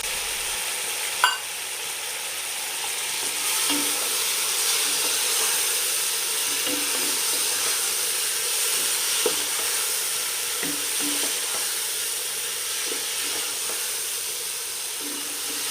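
Chicken pieces frying in a spiced masala paste, a steady sizzle while they are stirred, with small scraping knocks from the stirring. A single sharp knock comes about a second in.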